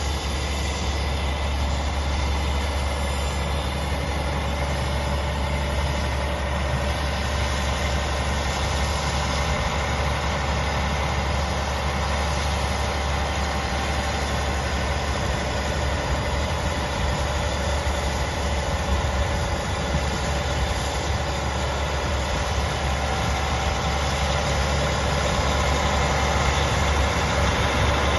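A John Deere 9430 tractor's diesel engine idling steadily, with a strong low hum; it gets a little louder near the end.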